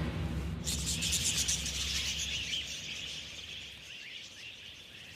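Birds chirping in natural outdoor ambience, a dense high twittering that gradually fades out.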